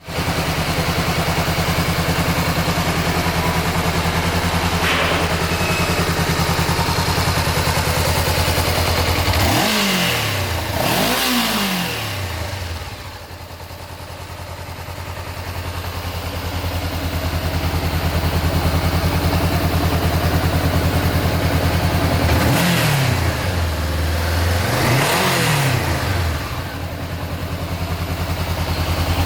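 Honda CB500F's parallel-twin engine idling steadily, revved twice in quick succession about ten seconds in and twice again a little past twenty-two seconds, each rev rising and falling back to idle.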